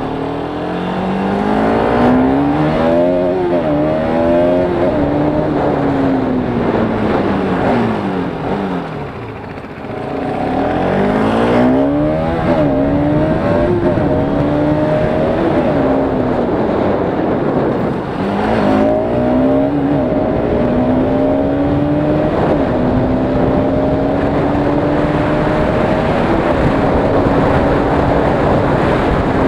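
Bajaj Pulsar RS200's single-cylinder engine accelerating hard through the gears, its pitch climbing and dropping back at each upshift. It eases off and winds down around eight to ten seconds in, then pulls up through several more gears and holds a high, slowly rising note near the end.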